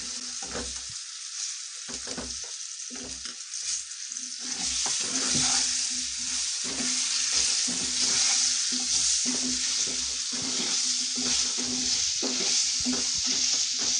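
Potato slices sizzling in hot oil and spices in a kadai, stirred and scraped with a wooden spatula. The sizzle grows louder about four seconds in, as the potatoes are turned through the oil.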